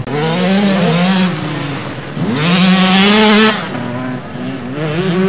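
Motocross bike engines revving hard on the track, the pitch rising and falling with the throttle. One bike passes close and loudest from about two and a half to three and a half seconds in.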